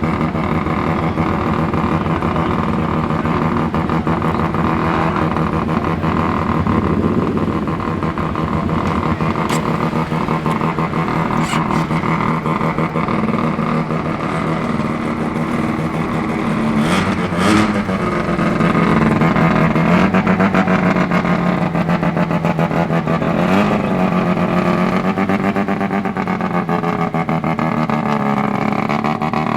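Mazda RX-3's rotary engine running very loud with a steady exhaust note, with two brief throttle blips in the second half.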